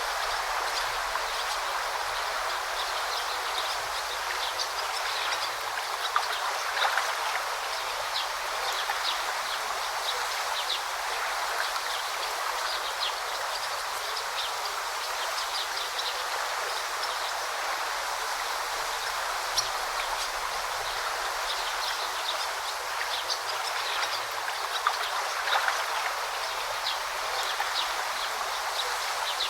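A river or brook flowing steadily over stones, with a constant babble and many small, high splashes and trickles dotted through it.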